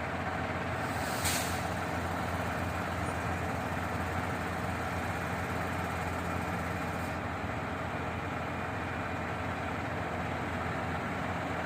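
Shingle delivery truck's engine running steadily, powering the truck's boom/pulley. There is a brief hiss about a second in.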